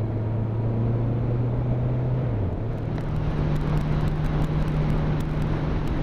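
Motorcycle engine running at road speed under wind and road noise. About two and a half seconds in, the engine note dips briefly and then carries on steadily at a higher pitch.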